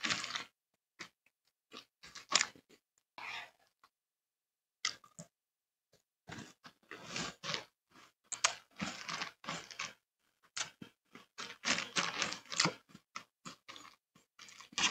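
Close-miked chewing of Cocoa Pebbles cereal: a run of short, crisp crunches, a near-quiet pause of about a second around four seconds in, then denser chewing.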